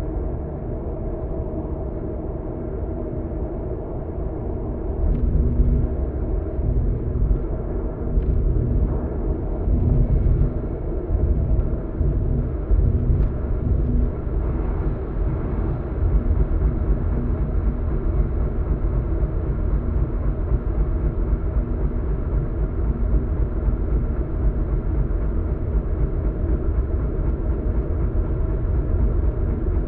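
Road noise inside a car's cabin while driving: a steady low rumble of tyres and engine that grows louder about five seconds in, with a few faint clicks.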